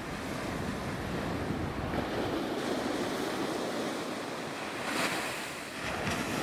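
Ocean surf breaking and washing up the beach, with wind buffeting the microphone; a wave breaks loudest about five seconds in.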